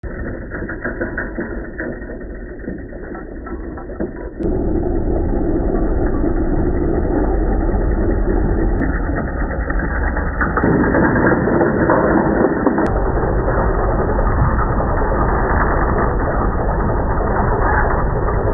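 Tractor engine running with mechanical clatter. It gets louder suddenly about four seconds in and again about ten seconds in, with a few sharp clicks.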